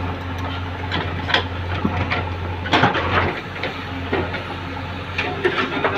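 JCB excavator's diesel engine running steadily under load while its bucket digs, with scattered knocks and scrapes of the bucket in soil and a louder crunch about three seconds in.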